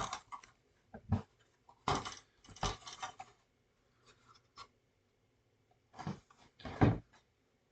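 Intermittent rustling, tapping and light knocking from a model kit box and its parts being handled, in short bursts with quiet gaps between.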